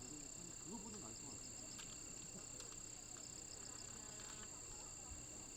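Insects trilling: one continuous high, steady trill, with a second insect chirping in short, evenly spaced pulses slightly lower. Faint, distant voices sound briefly about a second in.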